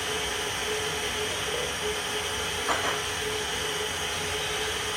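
Handheld gas torch hissing steadily as it lights the kindling in a wood stove, with one brief knock about two and a half seconds in.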